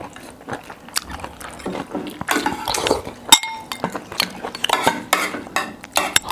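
Cutlery clinking and scraping against dishes while eating, with some liquid sounds, a series of short sharp clicks.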